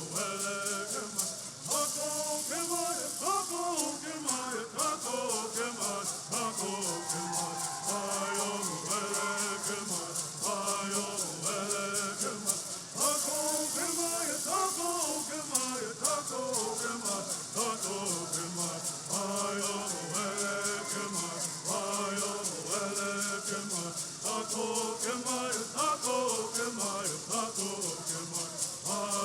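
Bird songs: a group of men singing in unison to the steady, rapid shaking of gourd rattles, accompanying bird dancing.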